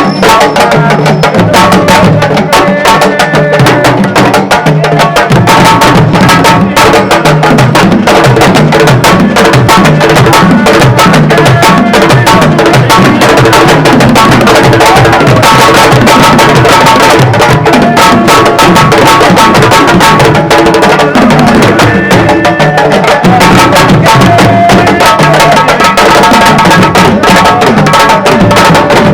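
Fast, dense drumming music, in the style of the Senegalese sabar drumming that accompanies traditional wrestling, with pitched parts running over the drums.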